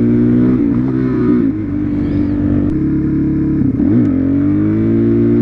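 Suzuki DR-Z400SM supermoto's single-cylinder four-stroke engine running hard under load. About four seconds in the revs dip sharply and climb again at a gear change.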